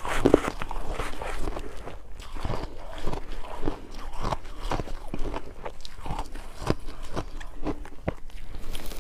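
Ice being bitten and chewed close to the microphone: an irregular run of crisp crunches, loudest just after the start.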